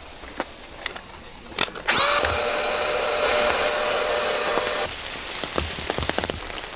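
Small electric air pump running steadily for about three seconds: it spins up about two seconds in and cuts off sharply, with light rain pattering around it.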